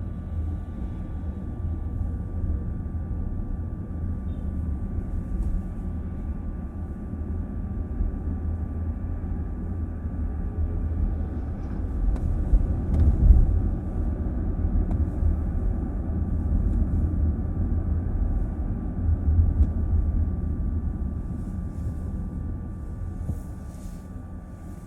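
Low road and tyre rumble heard inside a moving car's cabin, swelling louder twice partway through and easing off near the end.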